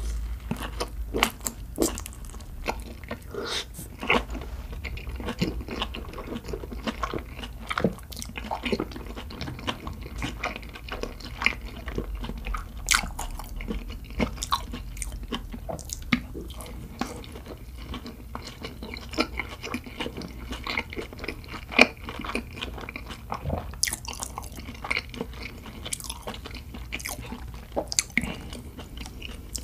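Chewing and biting of large steamed dumplings, with wet mouth sounds and frequent irregular smacks and clicks.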